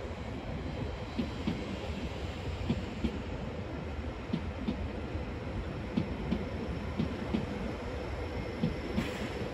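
Double-deck electric commuter trains rolling slowly over the tracks and points, wheels knocking irregularly on rail joints over a steady low rumble, with a faint steady hum.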